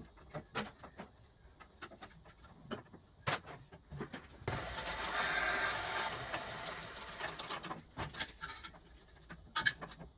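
Scattered clicks and knocks of parts and tools being handled, with a steady hiss lasting about three seconds that starts just under halfway through.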